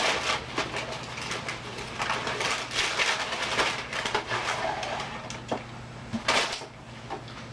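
Gift packaging rustling and crinkling as it is handled and unwrapped, in irregular bursts of crackle with sharper crinkles near the end.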